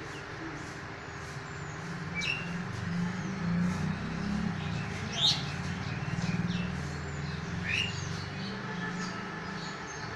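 Birds chirping, with a few short sharp calls, the loudest about five seconds in. Under them runs a steady low rumble.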